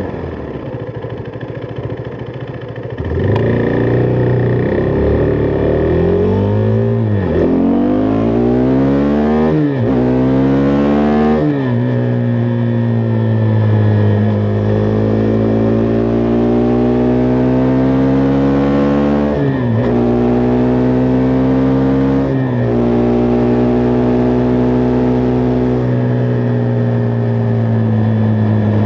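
Husqvarna Vitpilen 401's single-cylinder engine accelerating up through the gears: quieter at first, then the revs climb and drop back at three quick shifts, followed by steady cruising revs broken by two brief dips at further gear changes.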